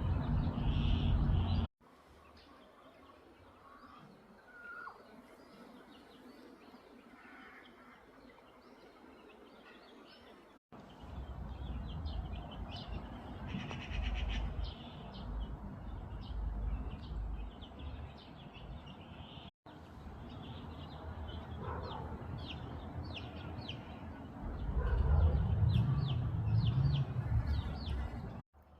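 Small birds chirping in short, repeated calls over steady outdoor background noise, with a heavy low rumble underneath in some stretches. The sound breaks off abruptly three times and resumes with a different background.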